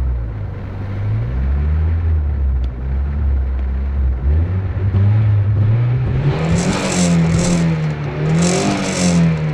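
Nissan 200SX S13's turbocharged CA18DET four-cylinder engine through a 3-inch turboback exhaust, heard from inside the cabin. The engine pulls steadily at low revs, then climbs in revs about four seconds in under acceleration, drops briefly and climbs again, with bursts of hiss near the top of the revs.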